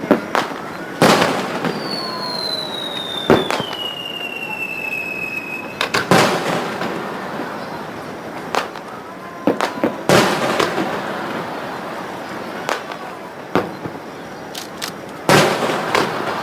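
Aerial fireworks bursting: about five loud booms with smaller cracks and pops between them. A long whistle falls slowly in pitch from about two seconds in and fades out near six seconds.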